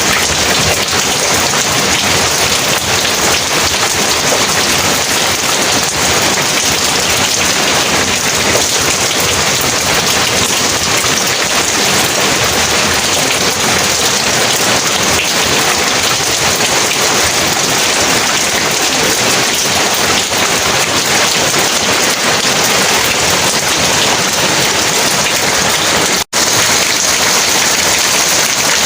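Heavy rain falling steadily in a dense, even downpour, cutting out for a split second near the end.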